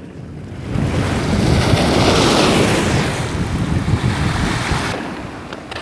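Rushing wind and sea-surf noise that swells about a second in, holds for about four seconds, then dies down.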